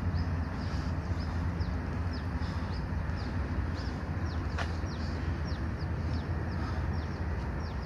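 A bird calling in a rapid series of short, high, falling notes, about two to three a second, over a steady low rumble. A single sharp click comes about halfway through.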